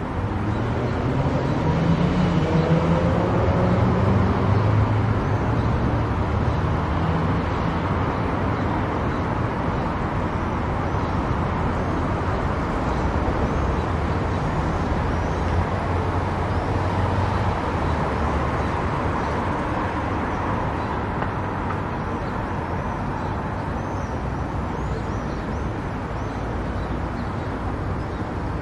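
Car driving at motorway speed: steady road and tyre noise with an engine hum, the engine note rising and growing louder over the first few seconds.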